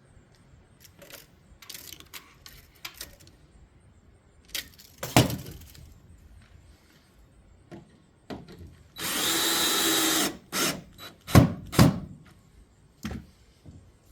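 A power drill runs in one short burst of about a second, just past the middle, amid scattered knocks and clatter of wood and tools being handled, with one loud knock about a third of the way in and two more in quick succession soon after the drill stops.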